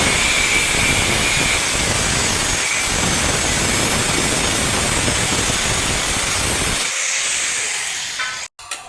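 A body-shop power tool or compressed-air tool running with a loud, steady hiss. Its low rumble drops away about seven seconds in, and the hiss cuts off near the end.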